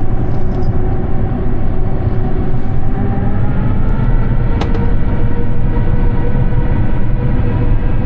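Airbus A350-900's Rolls-Royce Trent XWB jet engines and the airframe heard from inside the cabin: a loud, steady rumble with engine tones that slowly rise in pitch. There is a single click about halfway through.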